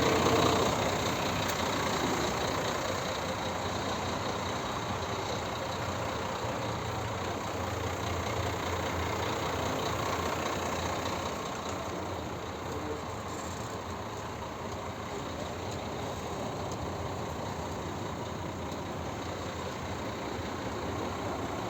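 Scania R 440 truck's 13-litre inline-six diesel engine idling steadily, a little quieter from about twelve seconds in.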